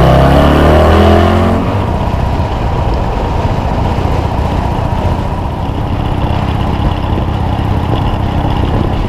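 Harley-Davidson motorcycle engine running under way, loudest with clear engine pitch in the first second and a half, then settling to a steady rumble with road and wind noise.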